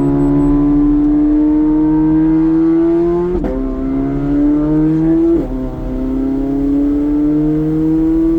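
2024 Corvette C8 Z06's flat-plane-crank 5.5-litre V8 with a modified exhaust, accelerating hard. Its pitch climbs steadily in each gear, broken by two quick upshifts about a third and two thirds of the way through.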